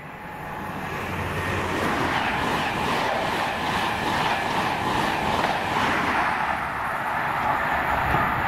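Intercity passenger train running through the station: a loud, steady rush of wheels on rail that builds over the first two seconds, with a regular clatter of wheels running through the middle.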